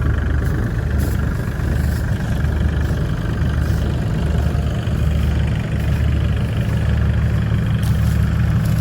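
Dump truck's diesel engine idling steadily, a low, even running sound.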